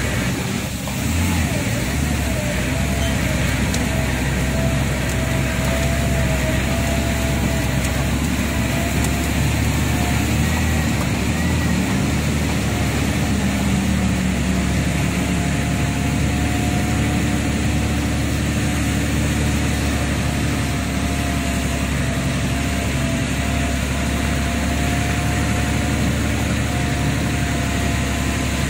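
Lorry engine running steadily under way, with a faint whine that wavers slightly in pitch.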